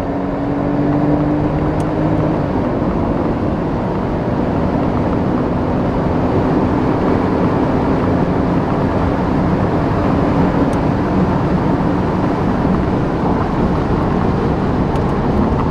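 Porsche 997 911 Turbo's twin-turbo flat-six pulling hard under acceleration through a Tubi-style exhaust, its pitch rising for about two and a half seconds, dropping sharply, then climbing slowly again, under heavy road and wind noise.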